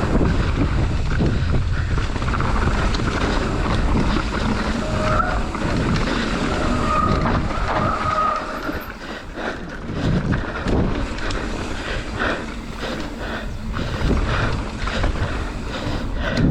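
29er mountain bike descending a rocky trail: a continuous rumble of tyres over rock, broken by frequent knocks and rattles from the bike as it rolls over the rocks, with wind noise on the microphone.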